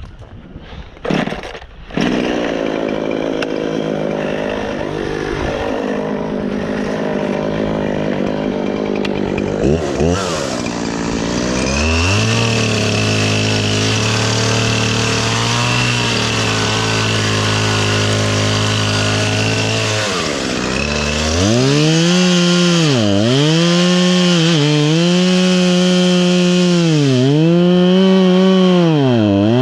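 Gas chainsaw running, first at a steady speed, then from about two-thirds of the way in at full throttle cutting wood. Its pitch dips every second or two as the chain bogs down in the cut.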